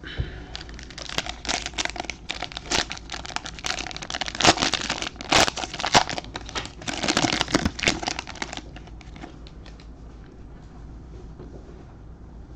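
Plastic trading-card pack wrapper being torn open and crinkled in the hands, a dense crackling that stops about eight and a half seconds in, leaving only faint handling sounds.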